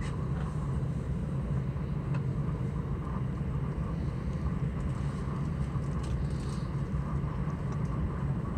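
Class 377 Electrostar electric multiple unit running at speed, heard from inside the carriage: a steady low rumble with no change in pace.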